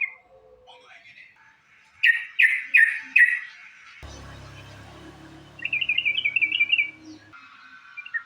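Yellow-vented bulbul (trucukan) calling: four loud chirps about two seconds in, then a rapid chattering run of bubbly notes, and a few more notes near the end. A low steady hum sits underneath through the middle.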